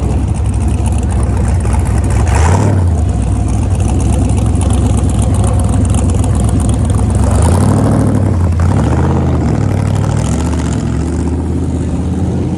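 Car engine with a loud exhaust idling, blipped briefly about two and a half seconds in and revved up and back down again around eight seconds in.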